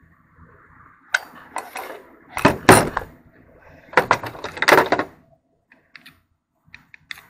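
Hard parts of a kitchen sink faucet being handled during disassembly, clattering and knocking in three loud bursts, with a few light ticks near the end.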